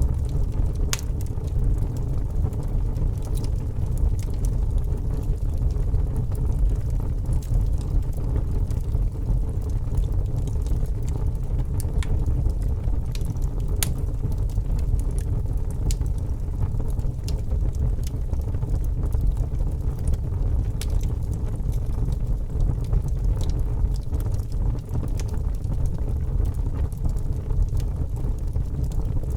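Logs burning in a fireplace: a steady low rumble of the fire with irregular sharp crackles and pops scattered throughout.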